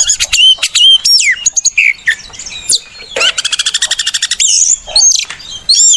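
Oriental magpie-robin (kacer) singing a loud, varied song of clear whistles and pitch sweeps. About three seconds in comes a fast trill of rapidly repeated notes lasting just over a second.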